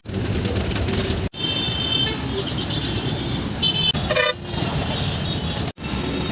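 Road traffic noise with short, high vehicle horn toots, broken by abrupt edits about a second in and near the end.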